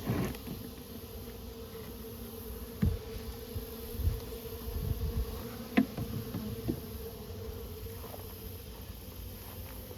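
A honeybee colony buzzing as a steady hum, with a few low thumps and a sharper knock about six seconds in.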